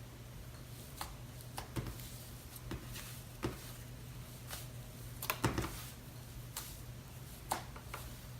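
Hands squishing and stretching a soft cloud slime, giving irregular small pops and crackles, with a cluster of louder pops about five seconds in. A steady low hum runs underneath.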